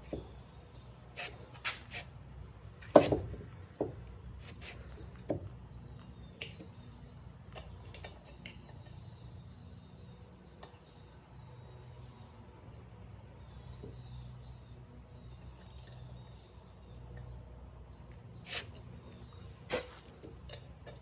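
Scattered clicks and knocks of metal tools and parts being handled, with one louder knock about three seconds in, over a low steady hum.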